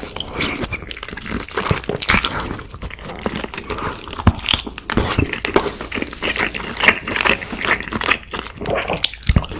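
Someone eating: irregular crunching bites and wet mouth clicks as the food is chewed.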